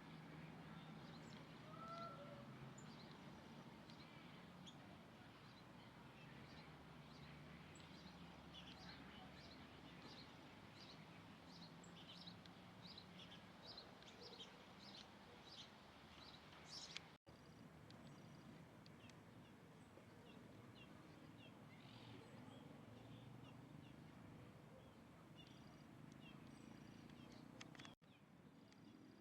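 Faint chirping of small birds: a quick run of short, high chirps through the first half, then scattered calls, over a low steady background hum.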